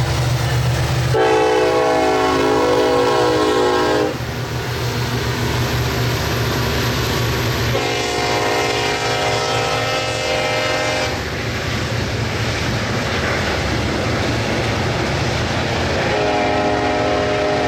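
Diesel freight locomotive air horn, a chord of several tones, sounding three long blasts a few seconds apart. Between and under the blasts, the locomotives and freight cars rumble and clatter steadily on the rails.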